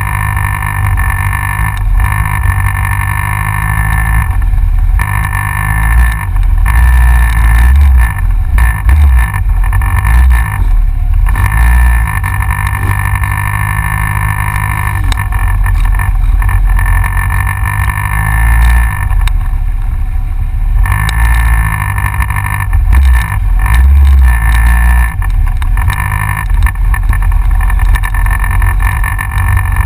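Yamaha XJR motorcycle riding along, heard from a GoPro mounted on the front of the bike: heavy, uneven wind buffeting on the microphone over the engine running, its pitch rising and falling a few times.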